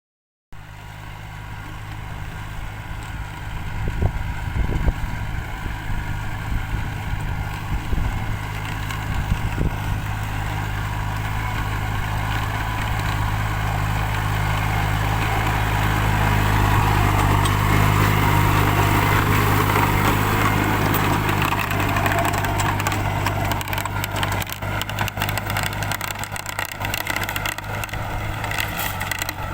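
Tractor engine running steadily under load. It grows louder until about two-thirds of the way through, then eases off a little, with a few knocks early on.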